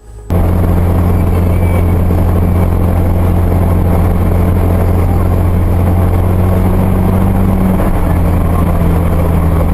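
Motor vehicle on the move: a loud, steady low drone of engine and road noise that cuts in sharply just after the start and holds unchanged.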